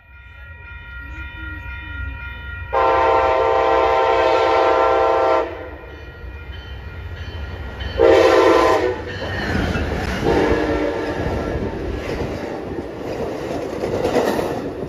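Amtrak passenger train approaching and passing at speed: the locomotive horn sounds one long blast and, a few seconds later, a short one, over the rising rumble and clatter of the wheels on the rails, which builds to a loud rush near the end.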